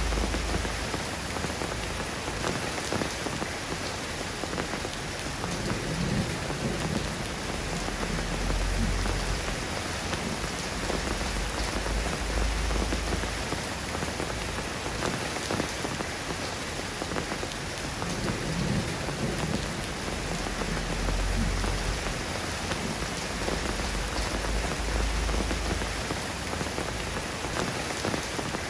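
Steady rain falling in a dense, even patter, with a few low rumbles swelling and fading underneath.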